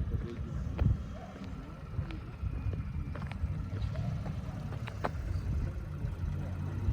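Toyota Crown's engine running with a steady low rumble, a few sharp clicks and faint voices in the background.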